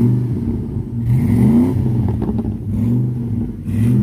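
Pickup truck engine revved again and again: several quick throttle blips, each rising in pitch and dropping back to a deep idle.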